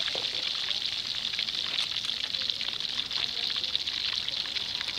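Snakehead fish deep-frying in a pan of hot oil: a steady sizzling hiss with scattered crackles and pops.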